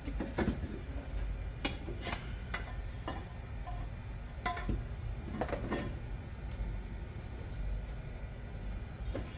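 Scattered light clinks and knocks of hard parts being handled and set in place, about a dozen irregular taps over a steady low rumble.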